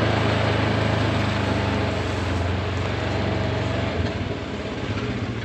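Farm tractor engine running steadily under load, its note shifting and easing slightly about four seconds in.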